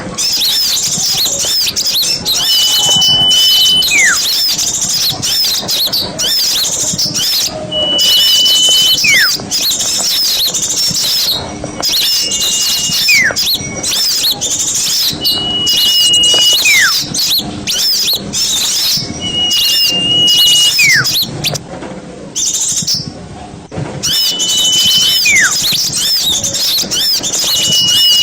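Small songbirds singing: a dense, high, continuous chatter, and about every three to four seconds a held whistle followed by a falling whistle. The chatter thins briefly about three-quarters of the way through.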